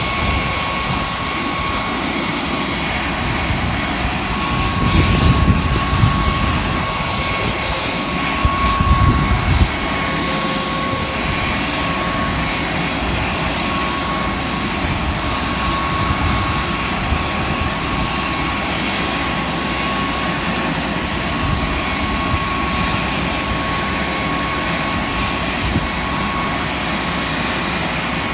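Panavia Tornado GR4's Rolls-Royce RB199 turbofans running on the ground during start-up, with a steady high whine over a broad roar. There are two brief surges of low rumble in the first ten seconds.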